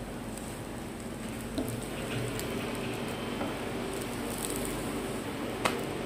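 French toast frying in butter in a nonstick pan: a steady, gentle sizzle. Near the end, a silicone spatula slides under the slice and clicks against the pan as the toast is turned.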